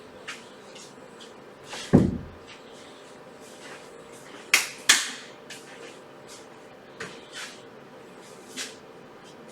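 Scattered small clicks and knocks of objects handled at a desk in a small room. There is one low thump about two seconds in and two sharp clicks in quick succession a little after four and a half seconds.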